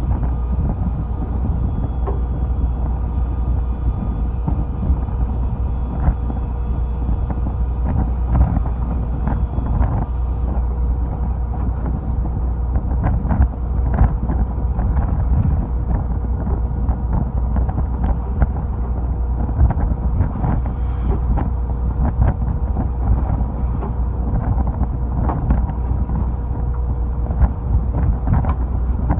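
Fishing boat's engine running steadily, with wind buffeting the microphone and irregular knocks and splashes of water against the hull.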